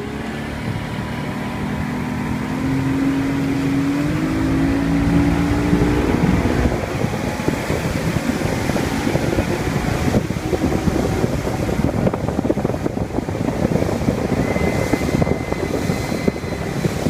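15-horsepower outboard motor on a small 10-foot boat accelerating, its engine note climbing over the first six seconds. A steady rushing of water and wind then takes over as the boat runs at speed.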